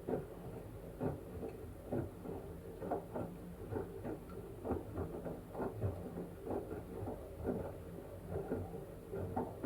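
LG washing machine tumbling a wet blanket in its drum mid-wash, with soft sloshing thumps about once a second over a steady motor hum.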